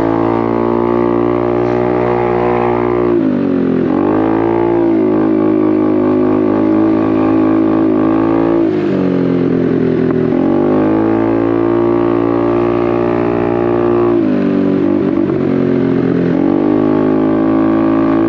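Honda Navi's small single-cylinder engine running under way through a Vance & Hines exhaust. Three times its revs drop and then climb back as the throttle is rolled off and opened again.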